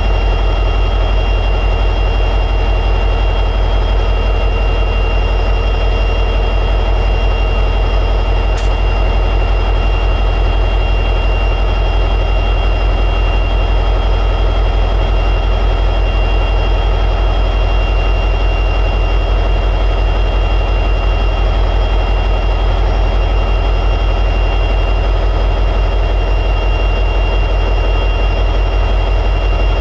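EMD 710G3B two-stroke diesel prime mover of an SD60E locomotive running steadily at high idle: a deep, even drone with a constant high whine over it. A brief faint tick comes about eight and a half seconds in.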